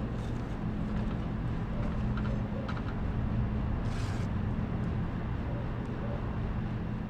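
Steady low mechanical hum, like an idling engine or a running motor, with a few faint clicks and a short hiss about four seconds in.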